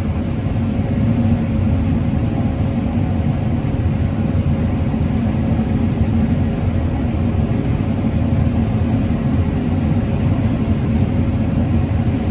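Combine harvester running steadily while cutting corn: a constant low drone with a steady hum through it.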